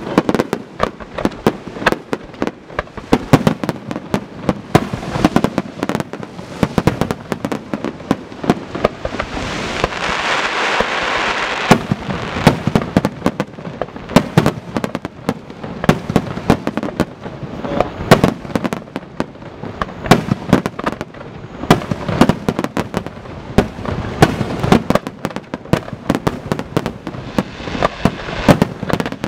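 Fireworks going off in a dense, irregular run of sharp bangs and pops. About ten seconds in there is a few seconds of steady crackling hiss under the bangs.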